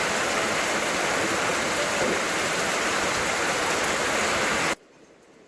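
Heavy rain falling steadily, a dense even hiss. It cuts off abruptly near the end, leaving only faint background sound.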